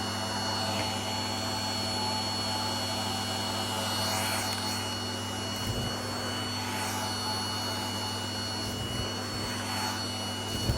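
Vacuum cleaner running steadily with a constant motor whine, its airflow sound swelling and easing about every three seconds as the nozzle moves.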